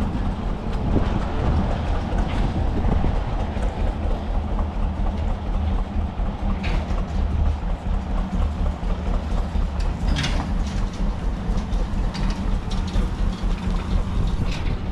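Tractor engine running steadily with a fast, even chug, with a few brief sharp clanks over it.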